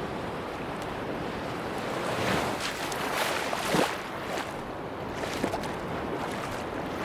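Sea waves washing onto a beach: a steady wash, with a wave breaking and swelling louder between about two and four seconds in, then a few brief small splashes.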